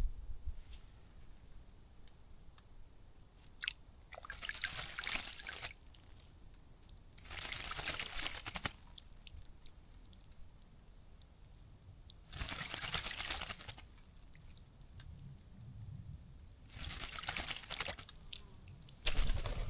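A bird splashing as it bathes in a bird bath, fluttering its wings in the water in bursts of about a second and a half. There are four bursts with pauses between, and another starts near the end.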